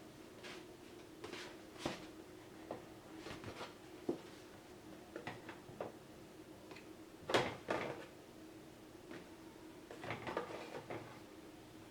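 Fridge drawers and plastic storage containers being handled and set down: a scattered series of light clicks and knocks, the loudest a quick cluster about seven seconds in, over a steady low hum.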